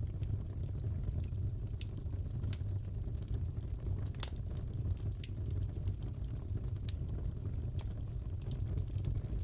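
Crackling fireplace: a steady low rumble of burning with scattered sharp pops and snaps, the loudest about four seconds in.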